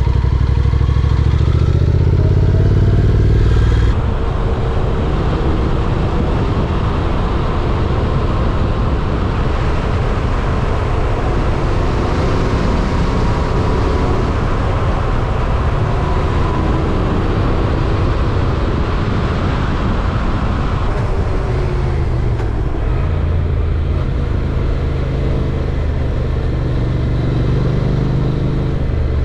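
Honda NC750X parallel-twin motorcycle engine running under way, the engine note shifting as the bike is ridden. The sound changes abruptly about four seconds in and again about twenty-one seconds in.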